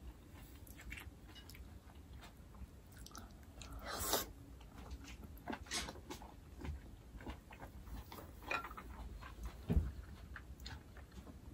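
Close-up chewing and wet mouth sounds of a person eating, with scattered small clicks. A louder rushing sound comes about four seconds in, and near the end there is a soft low thump as she slumps over.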